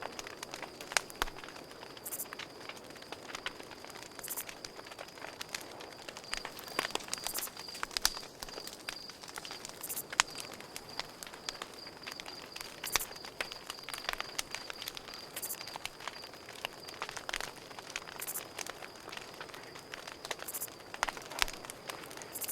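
Campfire crackling, with irregular sharp pops and snaps from burning wood. A cricket chirps underneath in a steady, high, pulsing tone.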